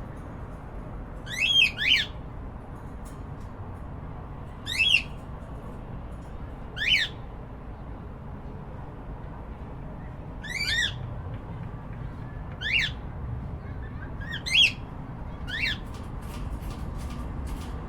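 Cockatiels giving short squawking calls, about eight brief calls at irregular intervals, some in quick pairs, over a steady low background hum.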